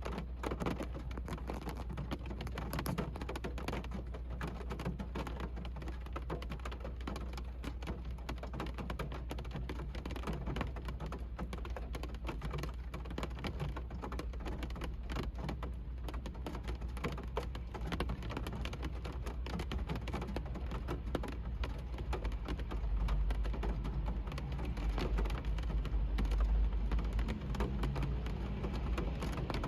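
Rain falling on a car, heard from inside the cabin: a dense, even spray of drop hits over a steady low rumble that swells a little in the last few seconds.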